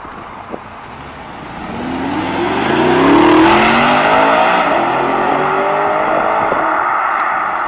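A car engine accelerating hard as the car pulls away, its pitch climbing steadily for about four seconds. It gets loud about two seconds in and eases off near the end.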